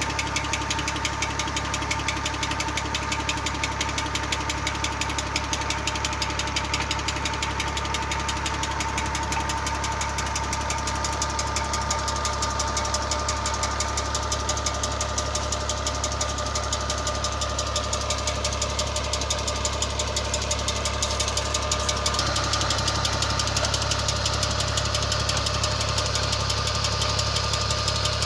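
New Holland Ghazi diesel tractor engine running steadily with a rapid, even diesel knock while it drives a tubewell pump through a shaft. About three-quarters of the way through, the sound gets slightly louder and brighter.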